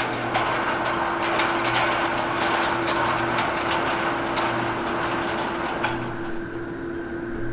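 Scattered knocks and clatters over a steady hum and a noisy rush, thinning out about six seconds in.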